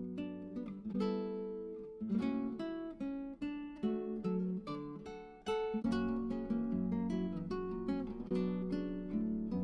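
Background music: acoustic guitar played in picked and strummed chords, each note starting sharply and fading, with the chords changing every second or so.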